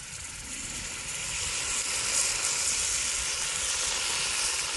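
Minced garlic and chili frying in oil in a wok, a steady sizzle. The sizzle grows louder about a second or two in as fish sauce is poured into the hot oil.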